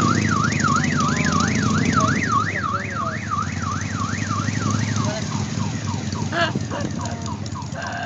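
An electronic siren sweeps rapidly up and down in pitch, about three times a second, over a vehicle engine running steadily underneath. About five seconds in, the siren switches to shorter, quicker chirps.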